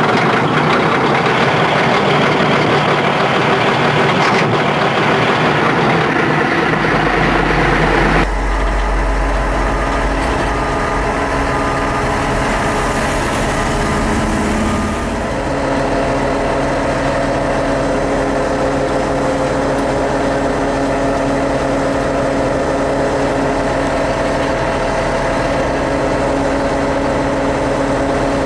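Diesel engine of a Bobcat E80 excavator running continuously. About eight seconds in it eases to a slightly quieter, steadier note, and it changes pitch again around fifteen seconds.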